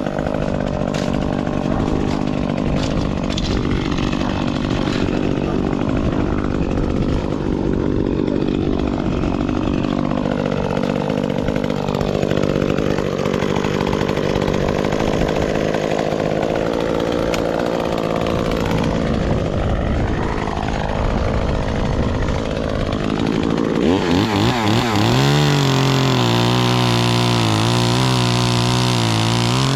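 Two-stroke chainsaw engine running through a cut, its pitch rising and sagging. About 24 seconds in, the engine sound gets louder and brighter and settles into a steadier pitch.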